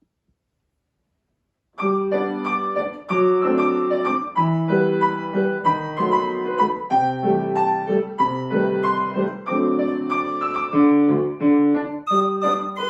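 Piano playing a lively piece with quick repeated notes in both hands, starting about two seconds in after near silence.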